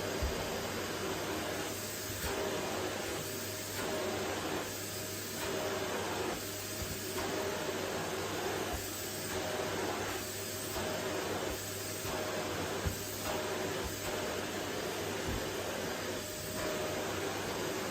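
Vacuum cleaner running steadily, its motor hum and airflow hiss rising and falling every second or two as the nozzle is pushed back and forth across the floor.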